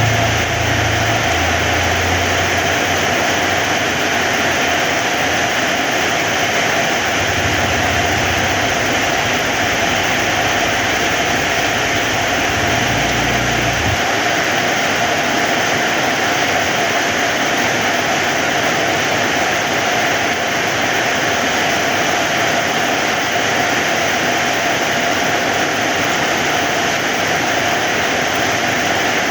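Heavy rain falling steadily. A low rumble sits under it for the first half and cuts off suddenly about halfway through.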